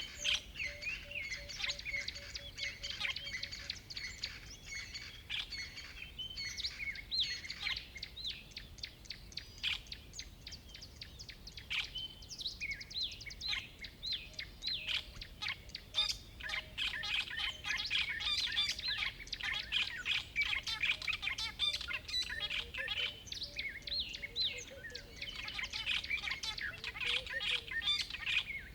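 A dense chorus of many wild birds chirping and singing, rapid high calls overlapping continuously, with a lower fast trill now and then.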